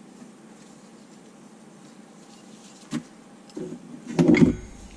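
Hands working on small engine parts at a workbench: a sharp knock about three seconds in, then a brief rustle and a louder clatter near the end.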